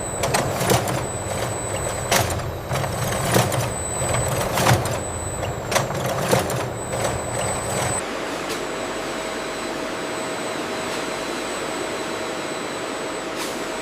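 Industrial machinery running. For about eight seconds there is irregular clattering and knocking over a low rumble, then it settles into an even noise with a faint steady whine.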